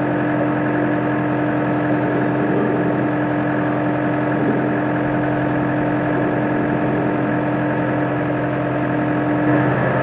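Tractor engine and its mounted hedge trimmer running steadily at work, a constant machine hum with one strong held tone.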